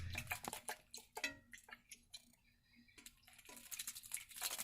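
Baby bird bathing in shallow water: a quick patter of small splashes and clicks, getting quieter in the middle and then busier again with heavier splashing near the end as it flutters its wet feathers.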